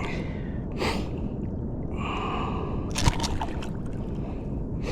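A person breathing hard in sharp gasps over a steady low rumble, with a cluster of sharp clicks about three seconds in.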